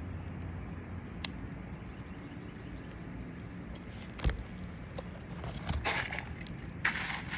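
A few short gritty scraping strokes near the end, after a click and a single knock, as an asphalt ridge shingle is cut to match the roof profile.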